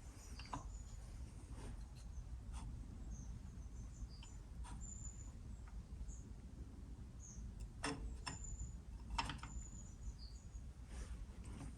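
Birds chirping faintly, with short high chirps scattered throughout, over a low background hum. Two light knocks come about two-thirds of the way in.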